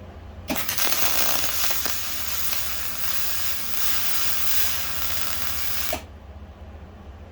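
A handheld power tool switches on with a click, runs steadily for about five and a half seconds, then switches off with a click, over a low steady hum.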